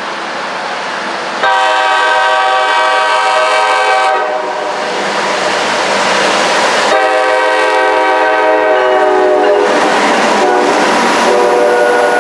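Train horn sounding a chord of several notes in three blasts: two of about two and a half seconds each, the third starting near the end, over the steady running noise of a passing train.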